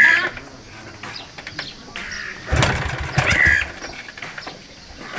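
Motorcycle engine being started, running for about a second about halfway through and then dying, on a bike that has trouble starting, which the mechanics put down to a spark plug problem.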